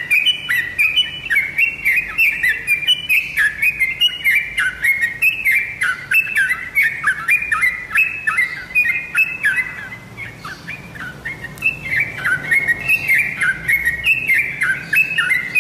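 Sooty-headed bulbul (trucukan) singing a fast, continuous run of short chirpy whistled notes, several a second, easing off briefly a little past the middle before picking up again.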